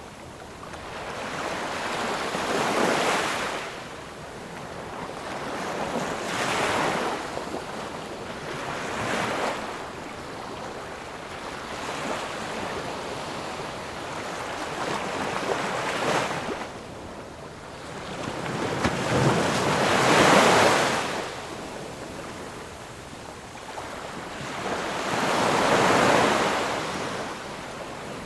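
Ocean surf: waves breaking and washing in one after another, each a swell of rushing noise that rises and fades over a few seconds. The biggest waves come about two-thirds of the way through and near the end.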